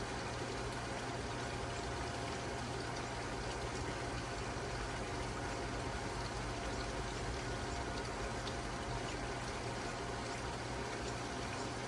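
Steady rushing water over a low, even hum, unchanging throughout.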